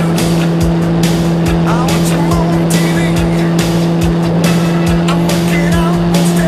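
Motorcycle engine running at a steady pitch that does not change, with frequent short knocks and clicks over the top, in moving traffic.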